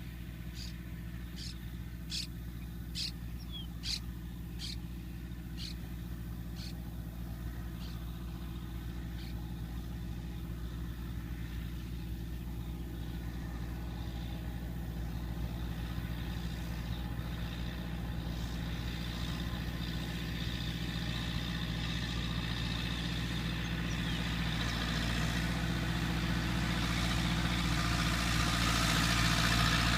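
Massey Ferguson 3060 tractor's diesel engine running steadily, growing gradually louder as it draws nearer. In the first nine seconds a run of short, high ticks sounds about every 0.7 s and fades out.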